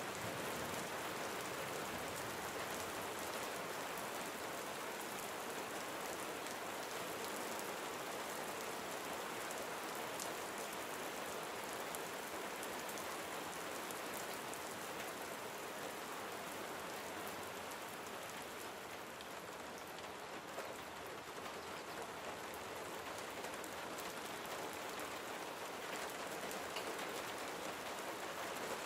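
Gentle steady rain falling on surfaces, a dense even patter of many small drops.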